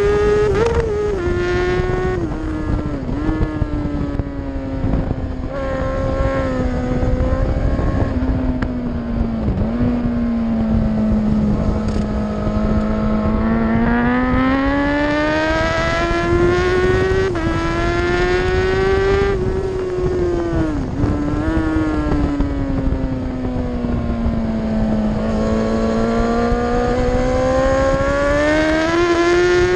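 Racing motorcycle engine at full race pace. Its note climbs and falls through the gears and corners, dipping briefly at each gear change, over a steady rush of wind on the microphone.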